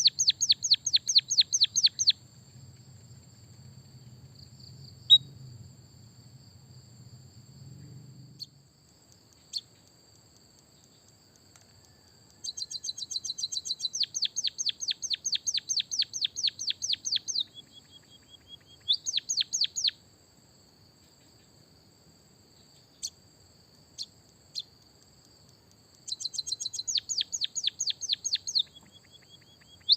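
White-headed munia (emprit kaji) singing canary-style song: several runs of rapid, falling trill notes, about eight a second and a few seconds each, with a short held note between two of them. A steady high-pitched tone runs underneath.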